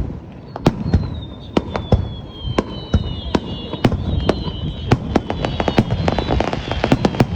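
Fireworks display: sharp bangs and crackling from bursting shells, coming faster and denser in the second half, over high thin whistling tones that sink slowly in pitch from about half a second in.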